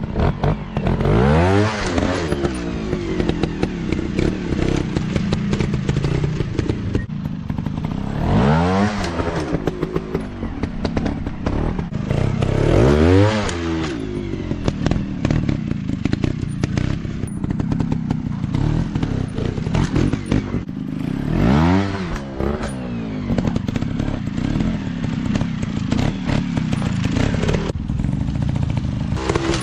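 Small off-road dirt bike engines being ridden, revving up and dropping back four times, with clatter and knocks from the bikes over rough ground.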